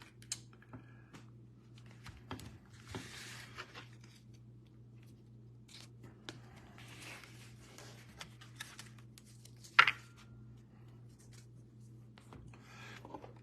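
Soft rustling and scraping of trading cards and pack wrappers being handled, with a sharp click about ten seconds in, over a steady low hum.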